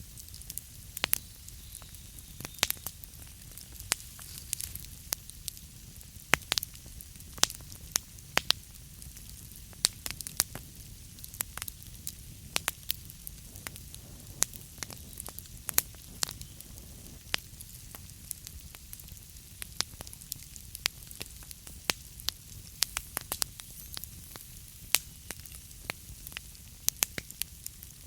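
Wood fire burning in a fireplace, logs crackling with frequent sharp, irregular pops over a steady low rumble of flame.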